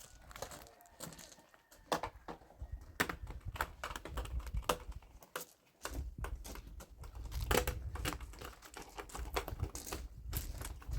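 Irregular sharp clicks and light knocks from handling or working with objects, over a low rumble that comes and goes.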